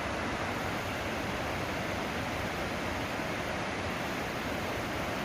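Steady rushing of whitewater from a mountain creek's waterfalls, an even noise without breaks.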